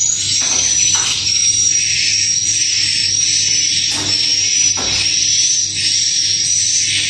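Dense, high-pitched swiftlet chirping that keeps going steadily, with a few soft knocks.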